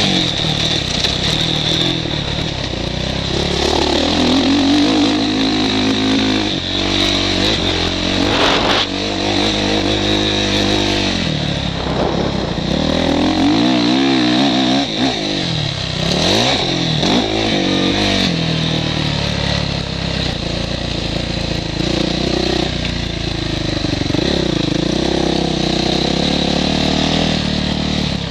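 Motocross bike engine heard from the rider's helmet camera, revving up and down again and again as the bike is ridden around the track, with steady wind and rushing noise over it.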